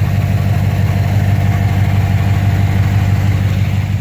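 2007 Chevrolet Avalanche's engine idling, a steady low rumble heard from beneath the truck.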